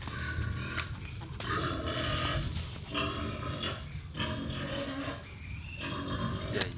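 An animal crying out in a series of four drawn-out, pitched cries, each about a second long, with short breaks between them.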